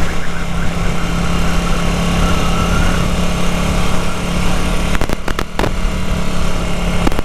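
Ducati 900 SS L-twin engine running steadily under way, heard from the rider's helmet mic with a strong low wind rumble. A few short clicks come about five seconds in and again near the end.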